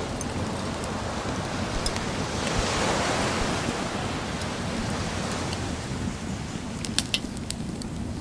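Sea waves washing on a beach, one wave swelling up about a third of the way in and drawing back, over the crackle of a wood bonfire, with a few sharp pops close together near the end.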